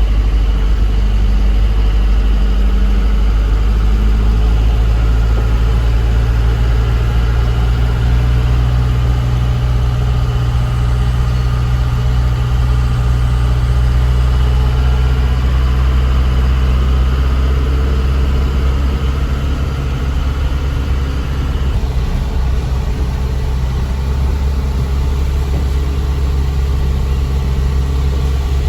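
Diesel engine of a small Isuzu Elf truck running steadily on the road, with a steady low drone. The engine note shifts at about 8 seconds and again at about 22 seconds.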